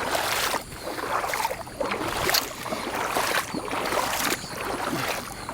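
Splashing, sloshing steps through standing floodwater about 8 inches deep, roughly one step a second.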